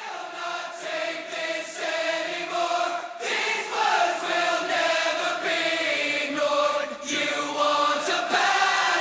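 Choral intro of a metal song: a group of voices singing long held notes that grow louder throughout.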